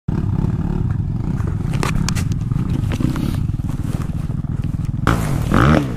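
Dirt bike engine idling with a fast, steady firing pulse, then revved briefly about five seconds in, the pitch rising and falling.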